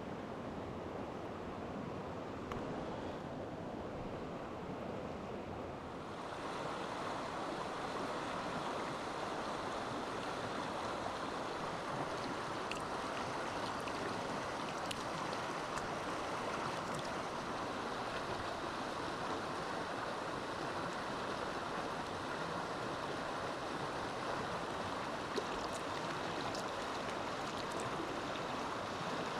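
Mountain stream water rushing steadily; the rush grows louder and brighter about six seconds in.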